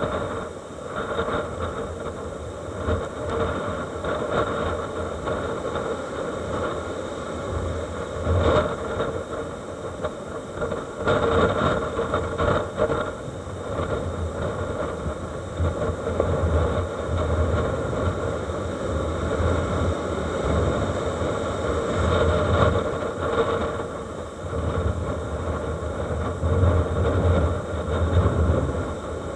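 Strong wind and heavy storm surf after a typhoon: a steady rumbling noise that swells louder several times as gusts and waves come in.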